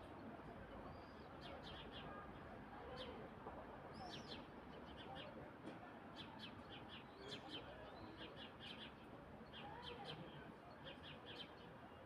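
Faint birdsong: short, high chirps repeated in irregular clusters over a steady background hiss.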